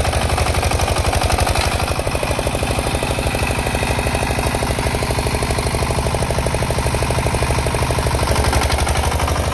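A 6 hp Field Marshal single-cylinder diesel engine running steadily, its firing coming as a rapid, even beat with no change in speed.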